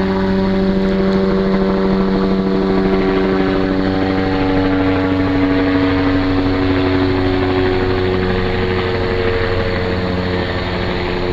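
Helicopter flying overhead: a loud, steady drone of rotor and engine, its pitch shifting slightly about eight seconds in.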